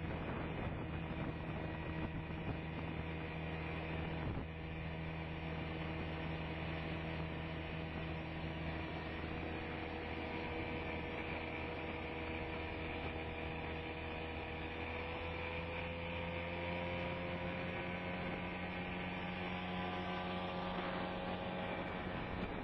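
Boat engine running with a steady drone, its pitch rising slightly about two-thirds of the way through.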